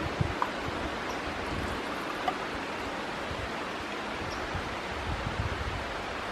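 Steady rushing of flowing river water, with a few faint light clicks.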